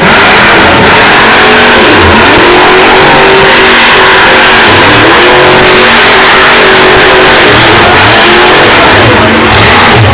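Monster truck engine revving hard and repeatedly, its pitch climbing and dropping again and again, loud enough to overload the recording.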